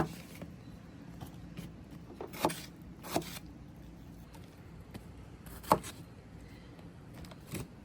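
Kitchen knife cutting strawberries against a cutting board: three short, sharp knocks at uneven spacing, over a faint low steady hum.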